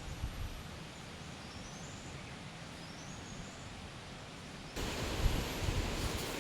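Forest ambience with a bird repeating a short run of high notes that step upward, every second or two. About three-quarters of the way in, the sound jumps abruptly to a louder, steady rush of heavy rain.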